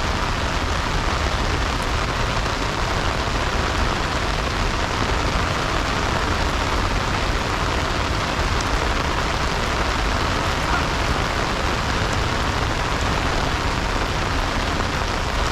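Heavy rain falling, a dense, steady hiss with no single drops or events standing out.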